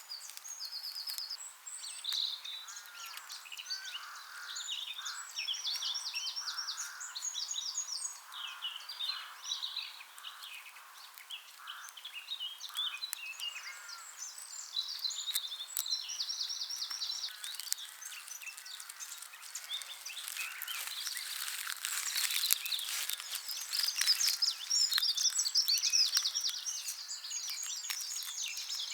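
Several songbirds singing and chirping in short trilled phrases. In the second half there is a dense, close crackling and rustling of many small clicks.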